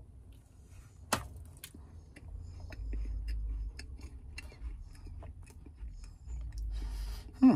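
A person chewing a soft shortbread sandwich cookie with the mouth closed: small wet clicks and ticks, with a sharper click about a second in. A brief voice sound near the end is the loudest moment.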